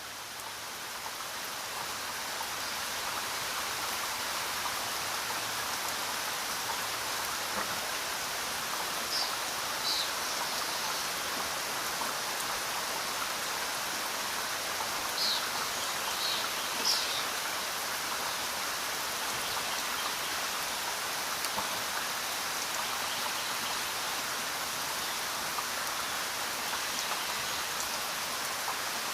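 Steady rainfall, a continuous even hiss that swells up over the first few seconds and then holds level, with a few brief high-pitched sounds near the middle.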